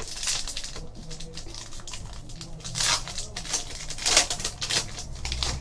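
A foil trading-card pack being torn open and crinkled, with cards shuffled in the hands: irregular sharp rustles, loudest about three and four seconds in.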